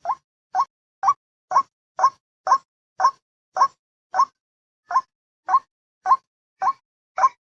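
White-breasted waterhen (ruwak-ruwak) calls played as a hunting lure: short, slightly rising 'kwak' notes repeated at about two a second, with one brief pause near the middle.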